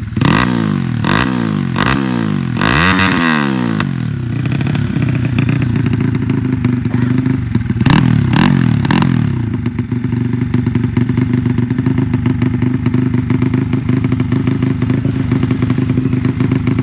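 Single-cylinder Honda C70 four-stroke engine bored to 180cc, revved in several quick blips over the first few seconds, revved again about eight seconds in, then settling to a steady idle.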